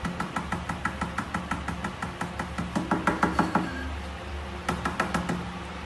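A rapid run of sharp taps or knocks, about six a second, that stops about three and a half seconds in and comes back for a brief burst near the end.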